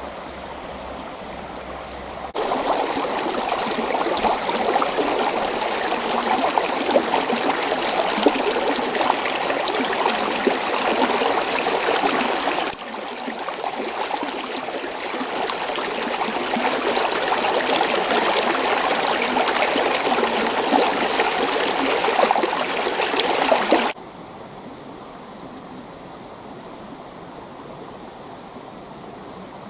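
Creek water running over rocks in a steady rushing haze. It jumps louder about two seconds in, dips near the middle, and drops suddenly to a softer flow near the end.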